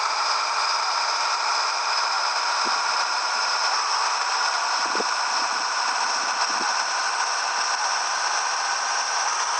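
Steady running noise of a truck on the move: a constant hiss with faint whining tones and light rattling, and a couple of brief knocks about a third and halfway through.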